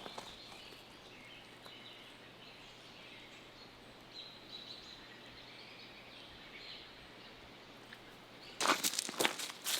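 Quiet outdoor background with a few faint bird chirps, then about nine seconds in a quick run of footsteps, much louder than the rest.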